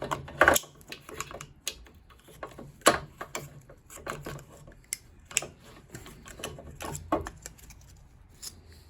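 Irregular clicks and light knocks of hand tools on metal and plastic boiler parts as a fitting is worked loose.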